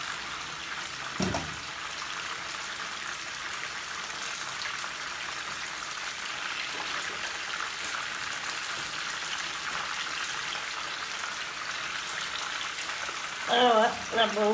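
Chicken pieces frying in a pan, a steady sizzle. About a second in there is a single knock as an aluminium pot is set down on the stove.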